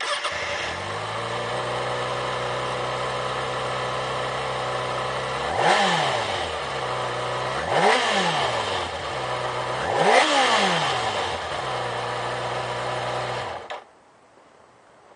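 2009 Kawasaki ZX-6R's 600cc fuel-injected inline four-cylinder engine starting, idling steadily, then revved three times with quick throttle blips that rise and fall, and switched off about two seconds before the end.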